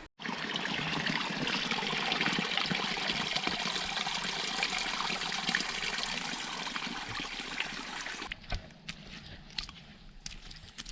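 Flowing water rushing steadily, cutting off abruptly about eight seconds in, after which only faint scattered clicks remain.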